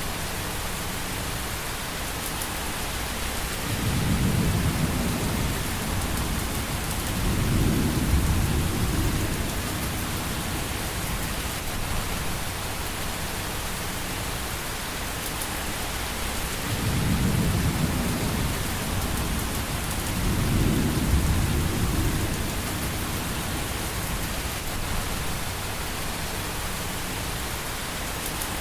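Steady rain hiss with low rolls of thunder, four of them, each lasting a second or two.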